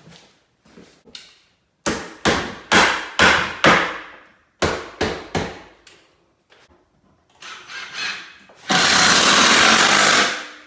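Hammering on wood trim: a run of sharp blows, five in quick succession and then three more, followed by a few lighter taps. Near the end a power tool runs in one steady burst of about a second and a half.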